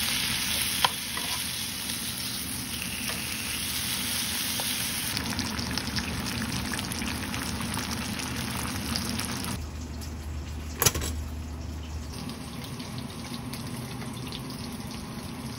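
Bacon and eggs sizzling in a frying pan, a steady hiss, with two sharp clicks, one about a second in and one near eleven seconds.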